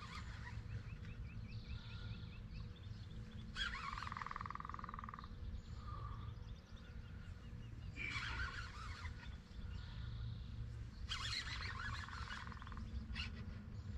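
Wild birds calling: bursts of chattering chirps every few seconds, with a short buzzy trill about four seconds in, over a steady low rumble.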